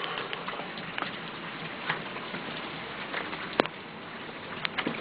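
Steady rain falling, an even hiss, with scattered sharp taps and clicks; the loudest tap comes about three and a half seconds in.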